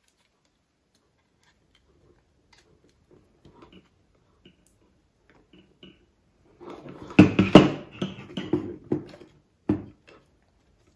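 Small hard parts being handled and knocked together on a workbench: a few faint clicks, then a burst of clattering and knocks about seven seconds in, and one more knock near the end.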